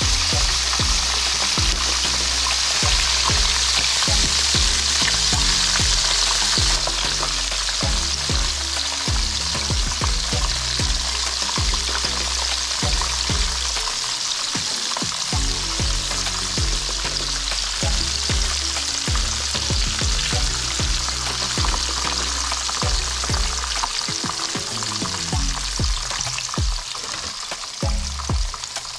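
Panko-breaded razor clam strips frying in hot vegetable oil in a pan: a dense, steady sizzle, loudest over the first several seconds. Now and then a fork or tongs clicks and scrapes in the pan as the pieces are turned.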